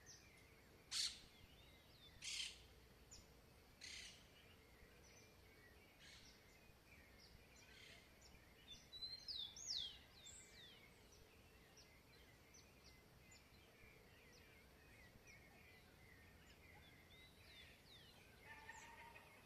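Faint birdsong: sharp single chips repeated every second or so, then a quick twittering phrase of downward-sliding whistles, followed by scattered chirps. A lower, rougher bird call starts near the end.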